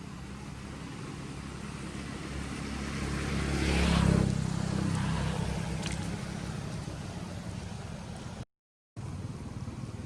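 A motor vehicle approaching and passing by: its engine and road noise grow louder, are loudest about four seconds in, then fade away. The sound cuts out completely for a moment near the end.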